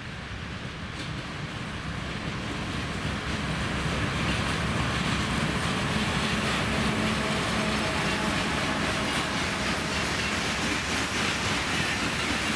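A train approaching and running past on the rails, growing louder over the first few seconds and then holding steady, with wheels rumbling over the track.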